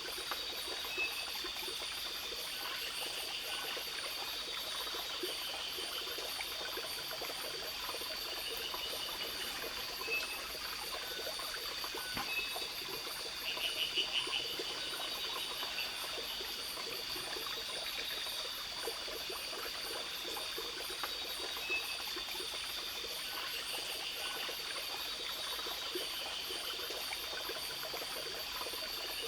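Rainforest ambience: a steady high insect drone and rapid insect trilling over a running-water hiss, with short high notes every few seconds and a louder pulsed trill about halfway through.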